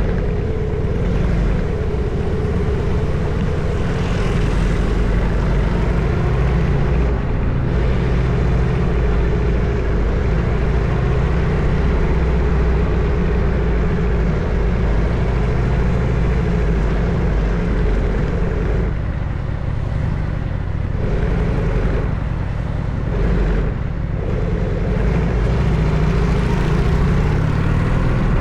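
Harley-Davidson FXSTS Springer Softail's Evolution V-twin engine running as the motorcycle is ridden, with a steady low exhaust note. Near the end the pitch climbs as it accelerates.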